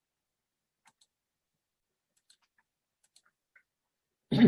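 Near silence broken by about five faint, scattered computer mouse clicks, then a man's voice starting near the end.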